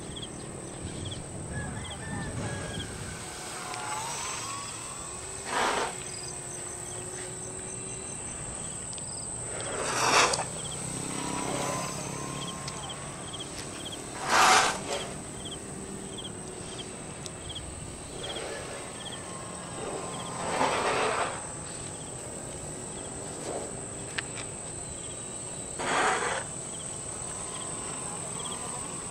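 Crickets chirping in an even rhythm over a constant high-pitched insect drone. Five short, loud rushes of noise break in, each a few seconds apart.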